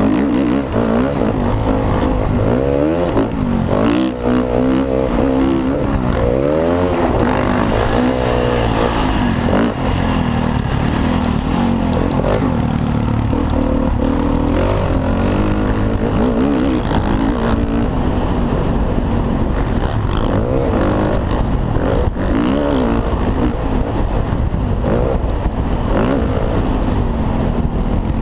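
Motocross dirt bike engines revving hard, their pitch repeatedly climbing and dropping as the bikes accelerate, shift and back off, over a constant low rumble.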